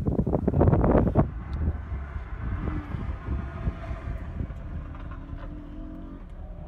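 1988 Toyota Supra's 7M-GE straight-six, heard from inside the cabin, revving hard as the car launches, loudest for the first second or so. It then settles to a quieter, steadier run through the course.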